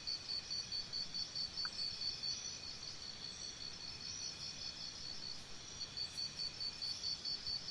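Crickets chirping in a steady high-pitched pulse, about four to five chirps a second, fading somewhat in the middle of the stretch.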